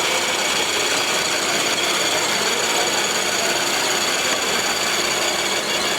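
Radio-controlled model construction truck running, a steady mechanical whirring with several high whines from its drive or hydraulic pump.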